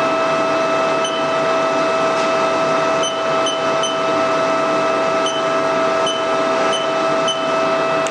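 Haas TL3B big-bore CNC lathe spindle running steadily at 200 RPM, giving a steady whine of several held tones. A few faint ticks come and go over it.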